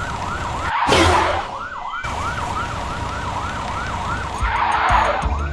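Emergency vehicle siren in a fast yelp, its pitch rising and falling about three times a second. A brief whoosh sounds about a second in.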